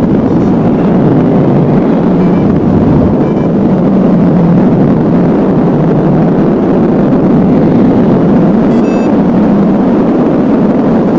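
Wind in flight rushing over the camera microphone, a loud steady noise without a break.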